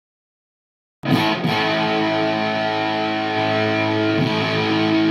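Silence for about a second, then an electric guitar played through a Sola Sound Tone Bender fuzz pedal: a chord struck twice in quick succession and left to ring on, thick and distorted, with another stroke a little after four seconds.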